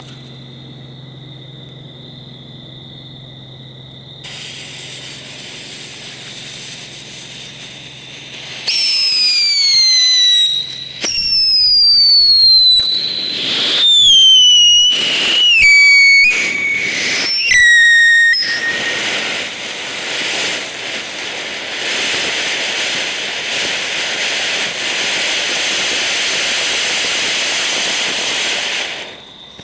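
Lil' Patriot Chatterbox novelty firework: a soft hiss starts a few seconds in, then five loud whistles in a row, each falling in pitch. Its colour fountain follows with about ten seconds of steady hiss, which cuts off near the end.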